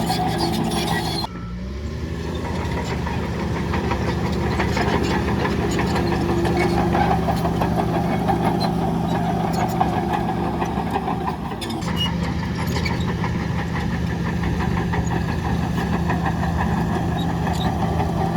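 Diesel engine of heavy earthmoving machinery running steadily, with light rattling and clanking over it. About a second in, the sound drops abruptly and the engine pitch climbs, and it dips briefly again later before settling back to a steady run.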